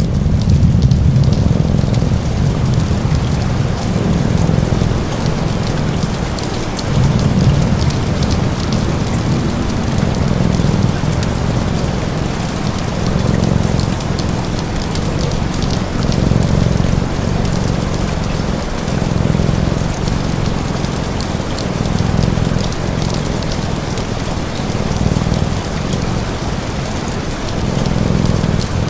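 Steady heavy rain, an even hiss with fine patter of drops. Under it runs a low rumble that swells and fades every second or two.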